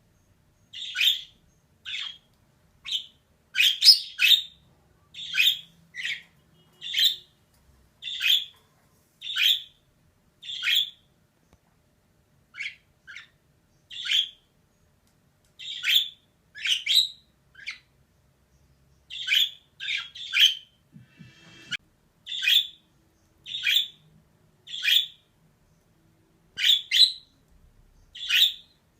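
Female budgerigar giving short, sharp chirps over and over, about one a second, with a few brief pauses and a short buzzy rattle about two-thirds of the way through.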